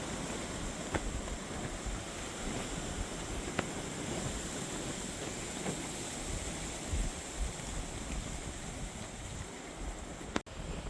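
Strong wind blowing in gusts and rumbling on the microphone, with a few faint ticks.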